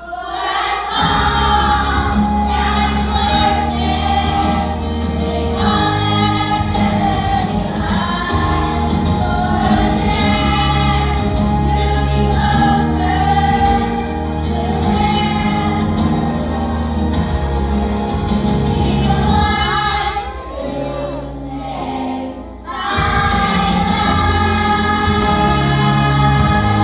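Choir singing a Christian worship song over instrumental accompaniment. The music thins briefly about 21 seconds in, then comes back in full.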